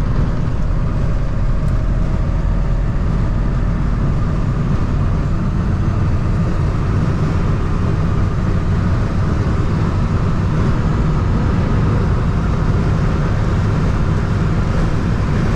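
Ford 7.3 IDI diesel V8 pulling at full throttle from about 50 mph, heard from inside the moving truck along with steady road and wind noise. A faint rising pitch over the first several seconds follows the climbing engine speed.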